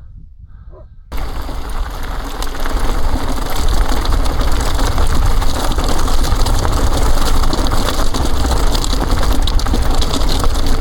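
Wind rushing over the camera microphone while the mountain bike rides over rough ground, with a busy rattling mixed in. The noise starts abruptly about a second in and stays loud and steady.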